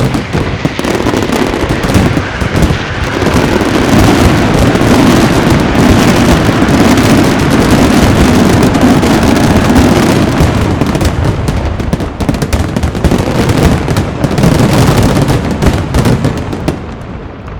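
Aerial fireworks in a dense, unbroken barrage, many shell bursts packed together over continuous crackling. The barrage eases off near the end.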